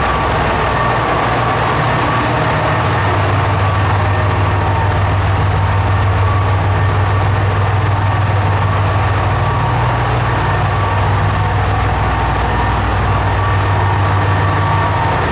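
Diesel railcar engine running steadily, a low hum holding one pitch with fainter higher tones over it.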